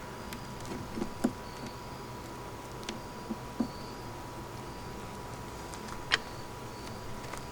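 A few light knocks and clicks of wooden beehive parts being handled, a cluster about a second in, more around three seconds, and the sharpest one a little after six seconds.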